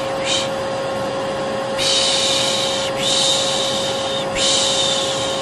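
Vacuum cleaner running with a steady hum, overlaid by a voice shushing "shh" to soothe a baby: one short shush near the start, then three long ones, each about a second long.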